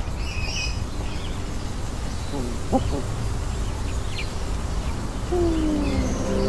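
Scattered bird calls and chirps over a steady low rumble. About five seconds in, held musical tones begin with a falling glide.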